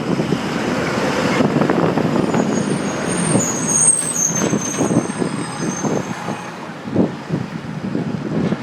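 Rattling and knocking of a handlebar-mounted phone on a bicycle riding through city traffic, with vehicle noise around it. About three seconds in, a high-pitched squeal lasts for about two seconds.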